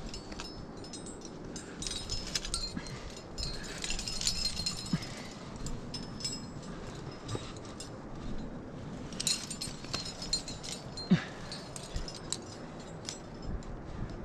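Metal climbing gear, such as carabiners and other hardware on a harness, jangling and clinking in short, irregular bursts with a light ringing.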